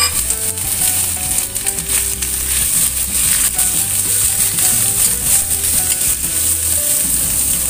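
Tofu and tempeh sizzling in hot oil in a stainless steel wok, with a steady hiss. A metal spatula scrapes and clicks against the wok as the pieces are stirred.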